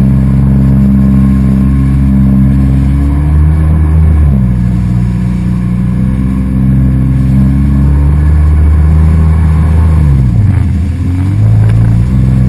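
A motor engine running steadily. Its pitch shifts about four seconds in, then drops and climbs back up near the end.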